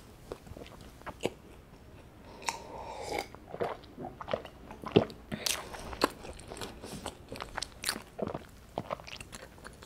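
Close-miked eating sounds: a mouthful of scone being chewed, with wet mouth clicks and swallows. Gulps of milk from a glass bottle come about a third of the way in.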